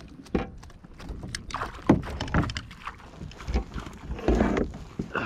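Irregular knocks, thumps and rustling against a kayak as a just-landed trout is handled aboard.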